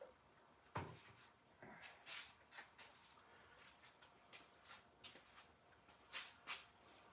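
Faint handling noises: a soft knock about a second in, then scattered light rustles and clicks.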